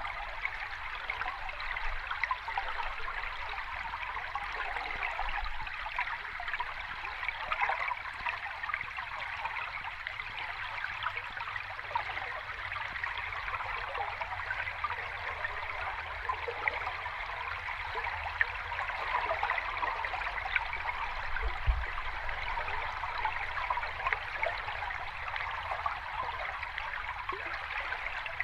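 Sea water at the shoreline, a steady fizzing and trickling dotted with many small crackles.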